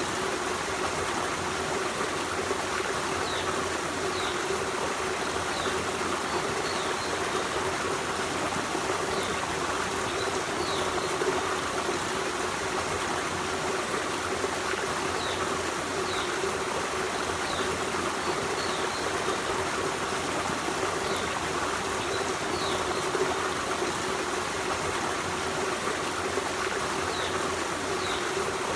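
Forest stream running steadily, a continuous rush of flowing water with no let-up. Faint, short, high chirps come through every second or two.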